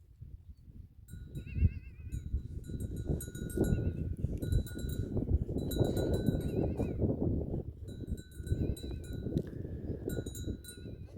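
Livestock neck bells ringing on and off as a herd of goats moves, with goats bleating now and then, over steady low rumbling noise.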